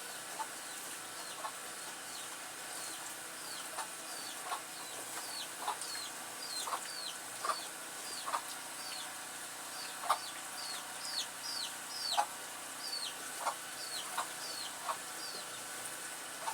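Chickens clucking, with many short high chirps that fall in pitch, several a second in the second half, over a steady high hiss.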